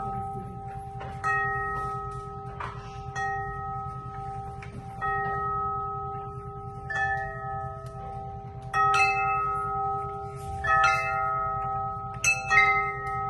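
Bells struck one at a time, roughly every two seconds, each note ringing on and overlapping the next, with a pair of quick strikes near the end. A steady low hum lies underneath.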